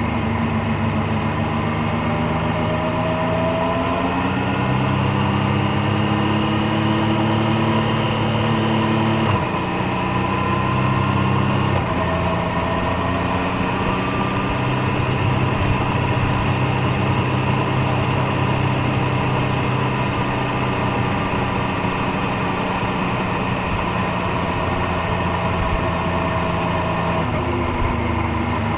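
Triumph Street Triple 765 Moto2 Edition's three-cylinder engine and exhaust running under way on the road. The engine note holds and climbs slowly, with two sudden shifts in pitch about a third of the way in and a couple of seconds later.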